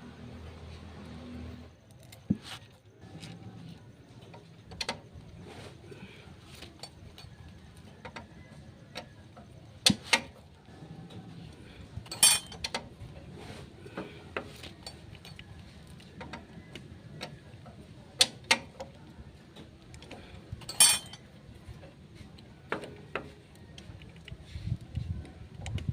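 Metal engine parts and hand tools clicking and clinking at irregular intervals during motorcycle engine assembly, with a few sharper metallic knocks.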